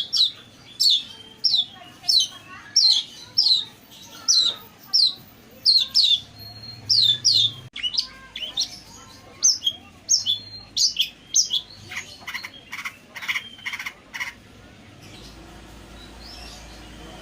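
Long-tailed shrike (pentet) calling: a quick series of sharp notes, each sliding down in pitch, about two a second. Near the end they give way to a few harsh, rasping notes, then the calls stop.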